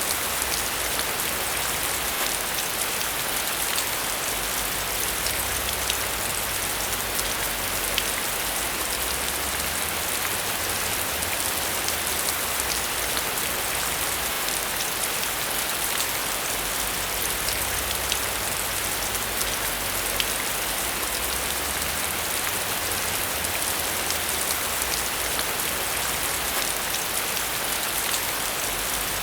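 Steady rain falling and pattering on a surface, an even hiss with many small drop ticks and a faint low rumble underneath.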